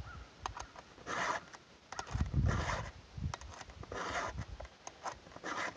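Round file scraping across a saw chain's cutters, sharpening the chain: steady strokes about one every second and a half, with a few low thumps between them.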